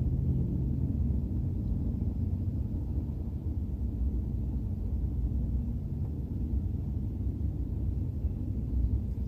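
Double-stack intermodal freight train rolling past: a steady, low rumble.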